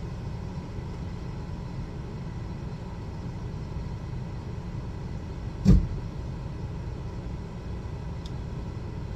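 Buick's engine idling steadily with the freshly recharged air conditioning running, a low even rumble. A single sharp thump sounds a little past halfway through.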